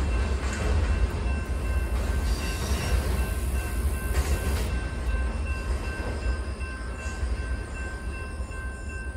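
Low rumble of a train on the tracks, slowly growing quieter, with the steady ringing of the grade-crossing warning bells over it.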